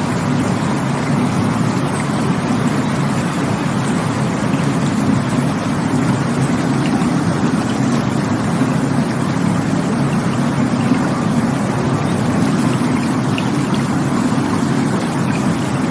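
Steady rushing water: a deep, even rush that holds the same level throughout.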